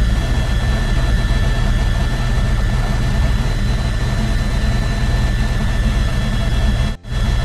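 Helicopter in flight: steady engine and rotor noise with a thin, high steady whine above it. The sound drops out for an instant near the end.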